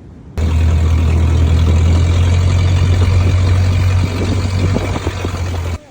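An engine running loudly and steadily, with a strong low hum, cutting in abruptly about half a second in and cutting off just before the end.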